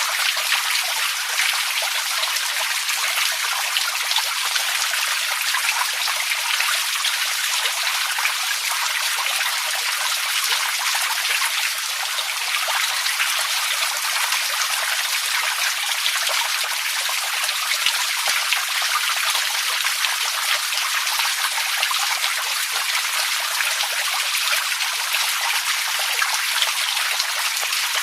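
Running water: a steady, even rush of flowing water that never pauses or changes.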